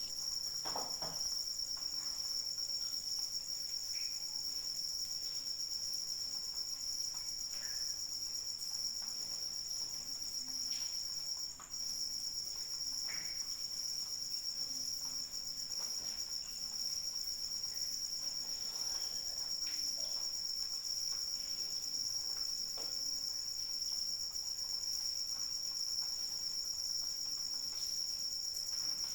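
Crickets chirping in a steady, continuous high trill, with several insects blended into one chorus. Faint scattered ticks sound underneath.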